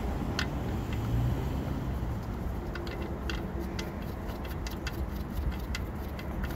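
Light, irregular metallic clicks of an open-end wrench on the oil drain plug as it is snugged down, over a steady low rumble.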